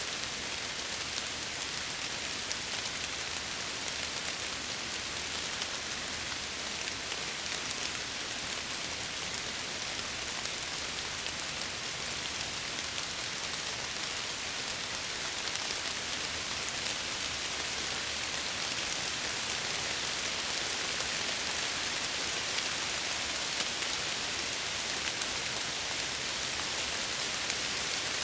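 Steady rain falling and pattering against window glass, a dense even hiss with fine scattered drop ticks.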